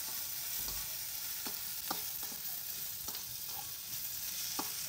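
Lemongrass, ginger and leaves sizzling in hot oil in a wok as they are stirred, with a few sharp clicks of a utensil against the pan.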